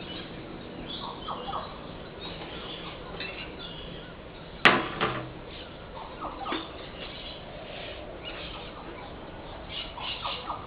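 Bush stone-curlew hissing in short, repeated bursts, the threat sound of an unhappy, agitated bird. One sharp click about four and a half seconds in is the loudest thing.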